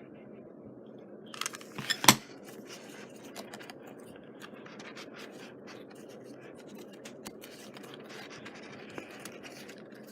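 Hands working fabric and paper at a craft table: light scratching and rubbing with small ticks, and a short clatter of sharp clicks about two seconds in, the loudest moment.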